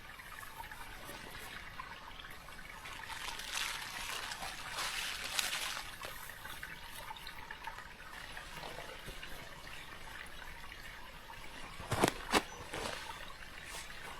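Moss and sticks being layered and packed by hand into a shelter wall: soft rustling and crackling, louder around four to six seconds in, then two sharp knocks about twelve seconds in.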